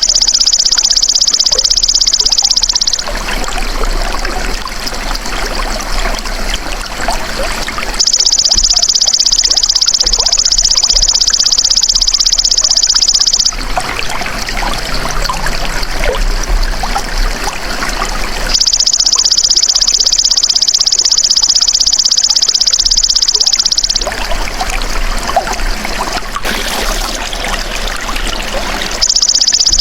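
A golden grasshopper (belalang emas) singing a loud, high, continuous buzz in stretches of about five seconds, breaking off and starting again about every five seconds. Under it and in the pauses, water trickles steadily.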